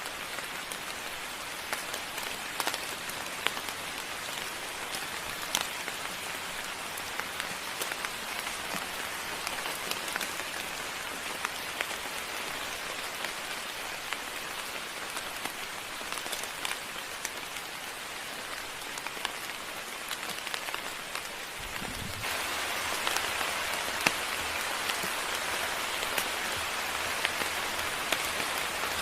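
Steady moderate rain falling, with individual drops ticking through the hiss. About three-quarters of the way through there is a dull low thump, and the rain abruptly becomes louder.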